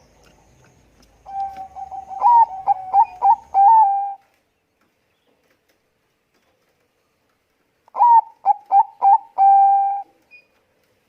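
Zebra dove (Bangkok perkutut) cooing: two bouts of quick, clipped coos, each bout ending in a longer held note, with a silent pause of about four seconds between them.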